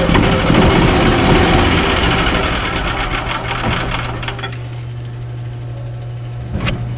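Yamaha G29 golf cart's single-cylinder gas engine running just after a tune-up with a new spark plug, air filter, fuel filter and oil. About four and a half seconds in it drops away, leaving a steady low hum, with a short click near the end.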